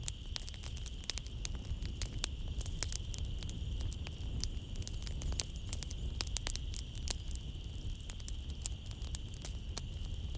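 Wood fire crackling in a fireplace: many sharp irregular pops and snaps over a low steady rumble of the flames, with a steady high trill of night insects behind it.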